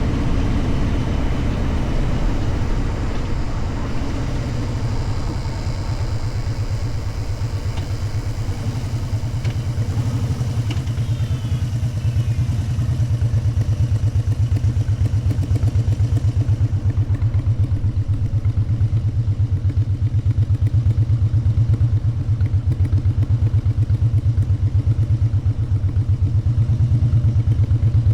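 Motorcycle engine running with a fast, even exhaust pulse, heard together with wind and road noise at first. About halfway through the wind noise fades away and the engine carries on at a low, steady beat.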